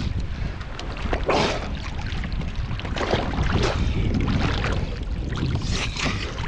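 Sea water splashing and sloshing around a swimmer in several separate splashes, over a steady low rumble of wind on the microphone.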